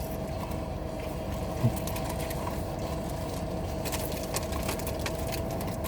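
Steady low hum inside a parked car, the engine or climate fan running, with a faint steady tone and scattered small clicks and one soft thud, typical of food and wrappers being handled.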